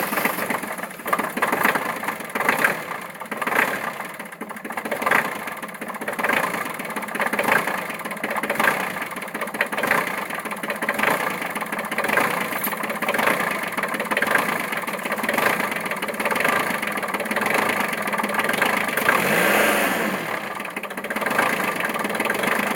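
Kubota B1-15 tractor's diesel engine running unevenly just after a cold start in freezing weather without working glow plugs, with irregular knocks about once a second. Near the end there is a short rise and fall in pitch.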